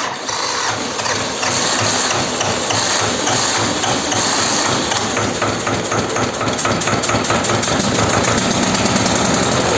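T-25 tractor's two-cylinder air-cooled diesel engine running loudly, with an even beat of knocks that quickens in the second half as the engine speeds up.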